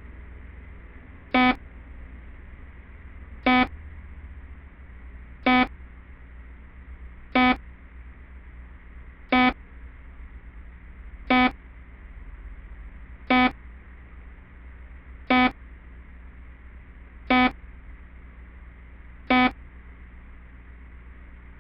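Security camera alarm beeping: a short buzzy beep repeated evenly about every two seconds, ten times, over a steady low hum.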